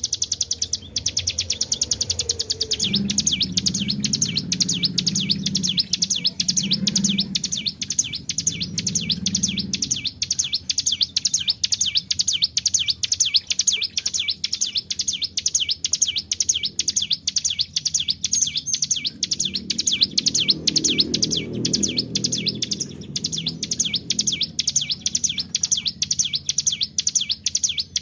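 Ciblek gunung, a prinia, singing a long, unbroken rolling trill of rapid high notes, the "ngebren" song used as a lure. A low hum rises and fades twice underneath.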